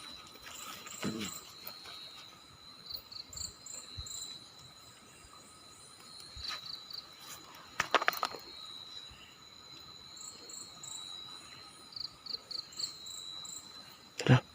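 Night insects, crickets among them, keep up a steady high trill, with short groups of three or four quick chirps recurring every few seconds. A few sharp cracks or knocks break in, the loudest about halfway and again just before the end.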